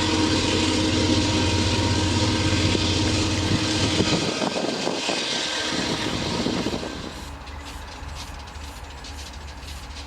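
Freight train passing: a diesel locomotive runs loud and steady for the first several seconds. About seven seconds in the level drops, and the wagons roll by with a quick, regular clicking of wheels over the rail joints.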